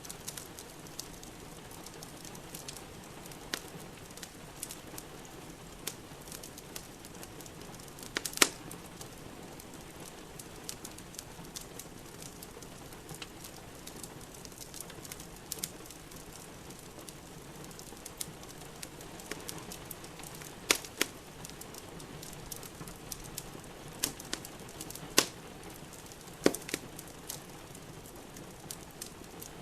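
Wood fire crackling in a fireplace, with sharp pops scattered irregularly through it over a steady hiss of rain. The loudest pops come about eight seconds in and several times in the last third.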